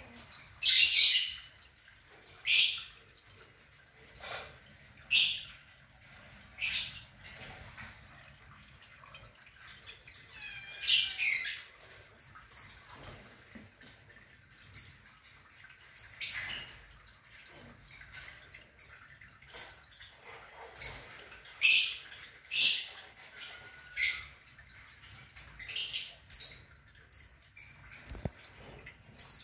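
Small birds chirping in short, high calls, coming irregularly and more often in the second half.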